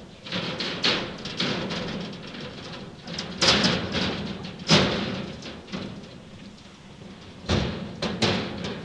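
Footsteps of two people walking on a narrow metal footbridge: irregular sharp knocks, several a second at times and a second apart at others, with the loudest steps near the end.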